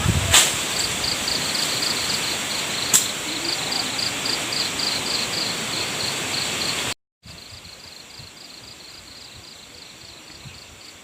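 Night insects, crickets, chirping in a steady pulsed rhythm of about three chirps a second, with a thin steady high whine behind them. Two short clicks come early, and about seven seconds in the sound cuts out for a moment and comes back much quieter.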